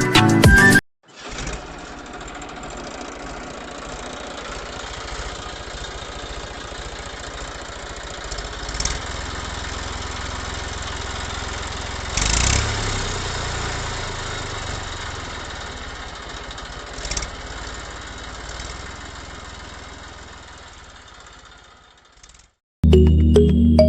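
Small electric motor of a homemade toy tractor running steadily, with a few short knocks; the whirr swells slightly, then fades away near the end.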